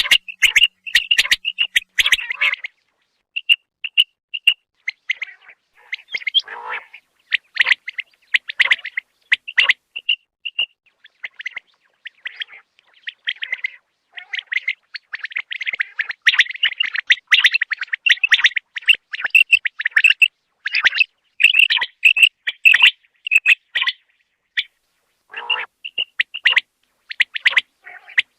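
Common quail calling: short, high chirping calls repeated in irregular clusters, with brief silent gaps between them.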